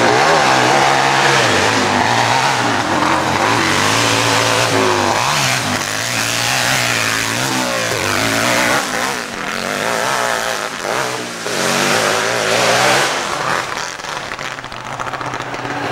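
Pro hillclimb racing motorcycle engine revving hard up a steep climb. Its pitch rises and falls over and over as the throttle is worked, and it eases off a little in the last couple of seconds.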